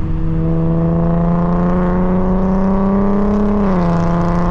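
2025 Honda Civic Type R's turbocharged 2.0-litre four-cylinder engine pulling under acceleration, heard from inside the cabin: its note climbs slowly and steadily, then drops in pitch near the end.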